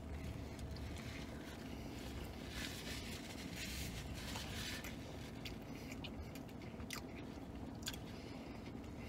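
A man chewing a mouthful of pretzel-bun bacon cheeseburger with soft mouth sounds, most active a few seconds in, and a couple of sharp small clicks near the end, over a low steady hum.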